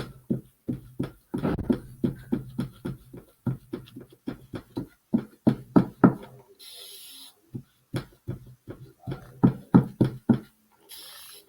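Repeated short dabbing taps of a paint brush working texture into a wooden birdhouse, with two short hisses of a spray mister wetting the paint, one a little past halfway and one near the end.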